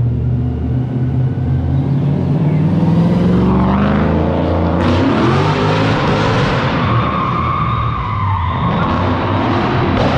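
Straight-piped Toyota 3UZ V8 drift car revving up, its engine note rising, then the tyres screeching through a long slide.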